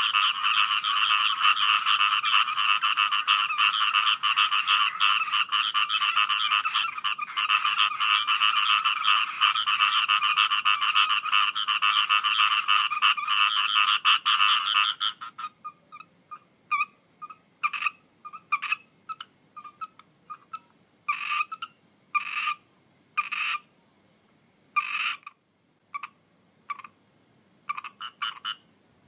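A chorus of frogs croaking in dense, rapid pulses, which stops abruptly about halfway through; after that only scattered single calls come now and then.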